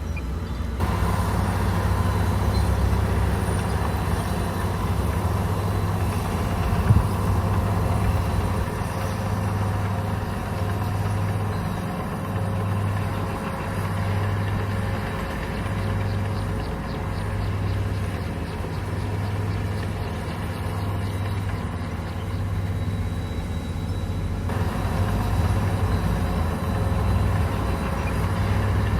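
Komatsu bulldozer's diesel engine running steadily under work, its low throb pulsing about once a second through the second half, with one sharp knock about seven seconds in.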